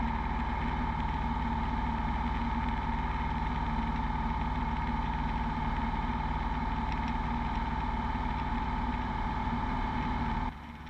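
Steady cabin drone of a Beechcraft Bonanza V35's piston engine and propeller in cruise, an even hum with a steady tone over it. It drops noticeably in level just before the end.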